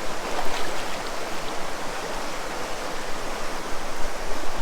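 Fast-running mountain stream rushing over rocks, a steady loud hiss of water.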